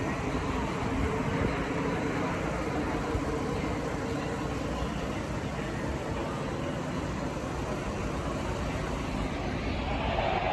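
NASCAR Truck Series race trucks' V8 engines heard as a steady, continuous drone around the track, growing louder near the end.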